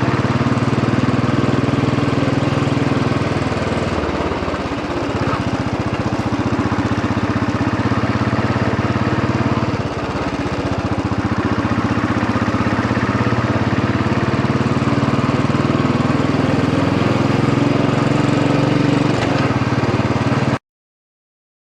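Royal Enfield Bullet 500 EFI single-cylinder engine running with a steady, rhythmic beat, easing off briefly twice. The sound cuts off suddenly near the end.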